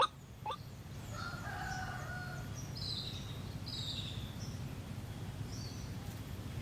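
Faint bird calls, one drawn out about a second in and shorter, higher calls after it, over a steady low hum. A sharp click at the very start and another about half a second later.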